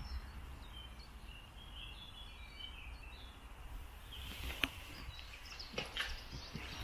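Faint chirping of small birds in the first half, over a low steady rumble on the microphone. Toward the end, a few footsteps or knocks on a hard floor.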